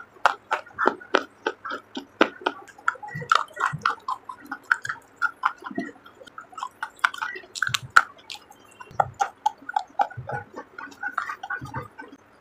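Close-miked crunching of a baked terracotta clay shard being chewed: a dense, irregular run of sharp cracks and crackles, with an occasional soft low thud.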